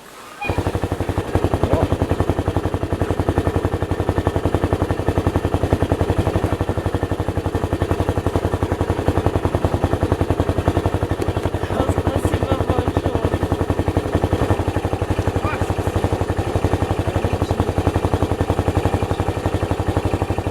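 Motorcycle engine running steadily, a fast even stream of exhaust pulses at a constant pitch, starting abruptly about half a second in.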